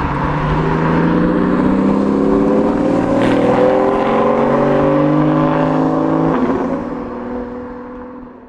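Porsche sports car accelerating along the road, its engine note rising steadily for about six seconds, then dropping at a gear change and fading away.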